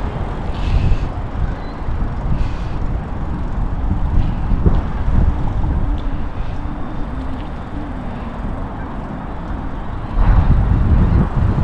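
Wind rumbling on the microphone of a camera carried on a moving bicycle, mixed with road traffic. The rumble grows louder about ten seconds in.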